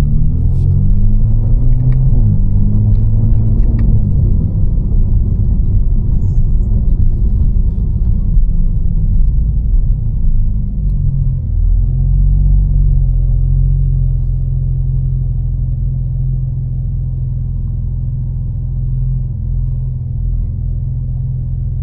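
Tuned, catless BMW M4 Competition's twin-turbo straight-six running under way, its pitch rising and falling through the first few seconds as it accelerates. It then climbs once more and settles into a steady cruising drone from about twelve seconds in.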